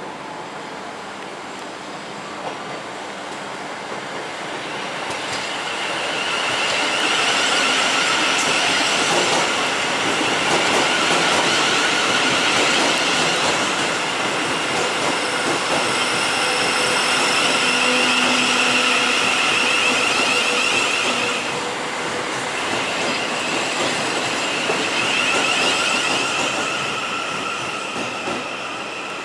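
Thameslink Class 700 (Siemens Desiro City) electric multiple unit passing on a curve, its wheels squealing against the rails over the running rumble. The sound builds a few seconds in, stays loud for most of the pass with a dip and second swell, then fades near the end.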